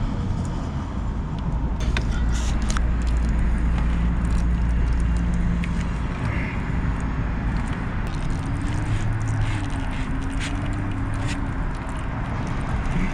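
Pliers clicking and scraping against metal as the oil screen is worked out of the motorcycle's drain port, a few sharp ticks spread through, over a steady low background rumble.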